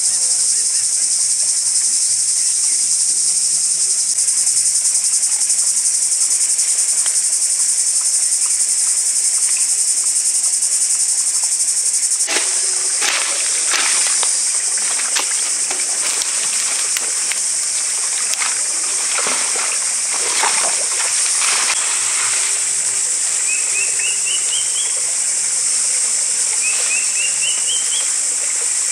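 Dense insect chorus buzzing steadily at a high pitch. There are rustling, clattering noises in the middle, and a few quick series of short rising chirps near the end.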